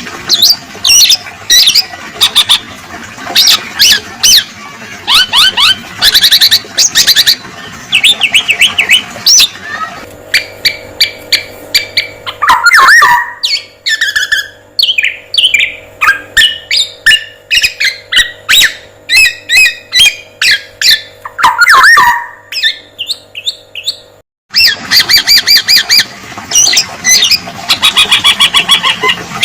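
Spliced bird-training recording of a male black-naped oriole's calls mixed with fast chattering calls of other songbirds used as fill-in. The birds call densely and repetitively. A middle stretch, cut in abruptly, has a steady hum beneath the calls.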